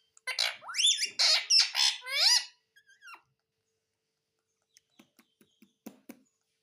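Pet parrot calling: a run of loud chirps and squawks that slide up and down in pitch for about two seconds, then a few faint clicks about five to six seconds in.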